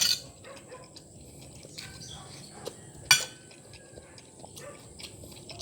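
Cutlery clinking and scraping against a plate during eating, with a sharp clink at the start and a louder one about three seconds in, amid smaller taps.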